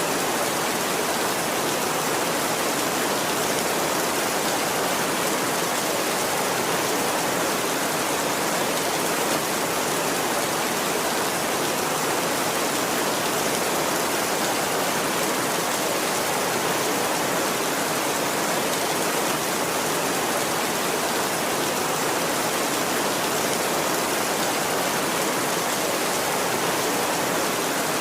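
Heavy rain falling steadily on a tin roof, an even, unbroken hiss with no thunder.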